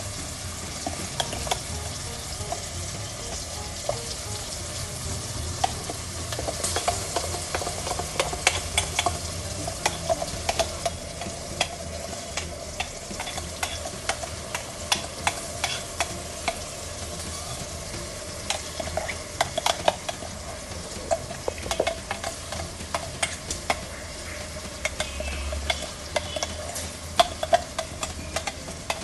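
Freshly ground masala paste frying in hot oil, sizzling steadily while being stirred. A spatula scrapes and knocks against the pot, giving frequent sharp clicks. The paste is being fried to cook off its raw smell.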